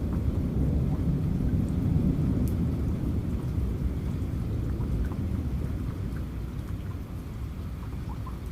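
Rain falling with a low rumble of thunder rolling through it, strongest in the first few seconds and easing off toward the end.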